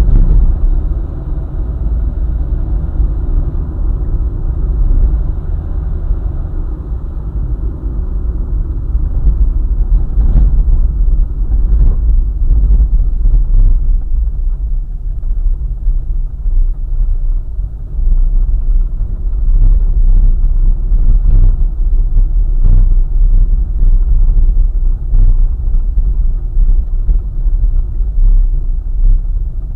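Car driving along a highway: a steady, heavy low rumble of road and engine noise, with a few short knocks scattered through it.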